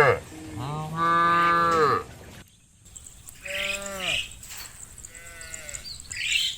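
Cows mooing: one long, loud moo about a second in, followed by several shorter, fainter moos.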